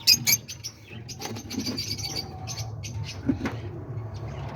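Caged small parrots chirping in many short, sharp calls, the loudest right at the start, over a steady low hum.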